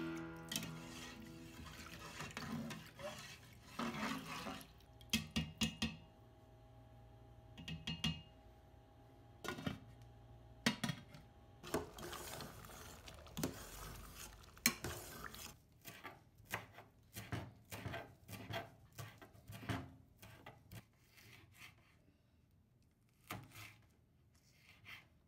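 A metal spoon stirring and knocking against a metal cooking pot of dal, giving a string of sharp clinks and scrapes. Near the end, a knife chops green chillies on a plastic cutting board with a few quick taps. Background music fades out at the start.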